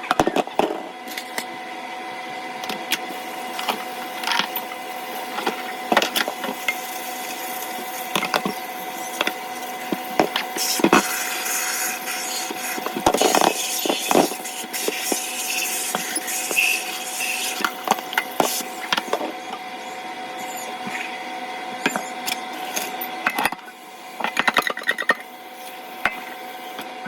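Kitchen handling noises: irregular clicks, knocks and scraping of utensils and containers over a steady hum, with a quick run of ticks near the end.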